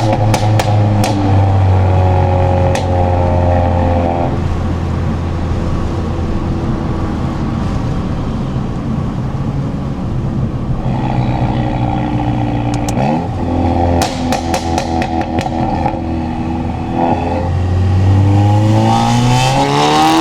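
Stage 2 tuned MK7.5 VW Golf R's turbocharged 2.0-litre four-cylinder engine and exhaust, running through the revs with pitch rising and falling. Its pops and bangs crackle at the start, again about 13 seconds in, and near the end, where the revs rise.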